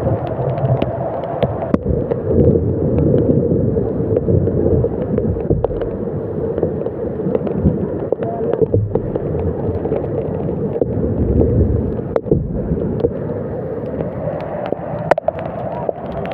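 Heavy rain with wind rumbling on the phone's microphone, a steady rushing noise with many sharp clicks of drops striking close by.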